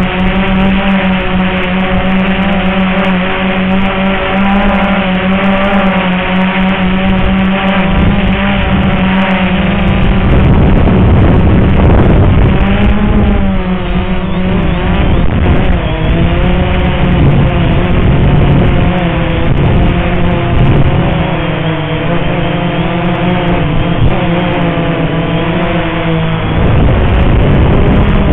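Walkera X380 quadcopter's motors and propellers buzzing, the pitch wavering up and down as the motors keep correcting. Wind buffets the microphone in rushes about ten seconds in and again near the end.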